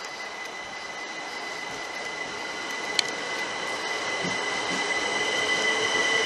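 A train approaching, its noise growing steadily louder, with a steady high-pitched squeal from the wheels on the rails and a single sharp click about halfway through.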